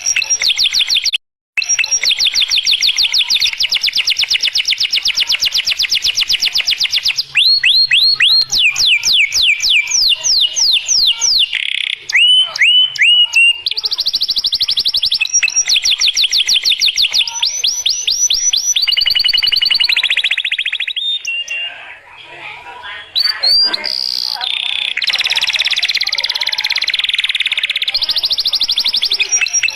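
Domestic canary singing a long, near-continuous song of fast rolling trills and rapid downward-sweeping chirps. There is a brief break about a second in, and a softer, choppier stretch around two-thirds of the way through.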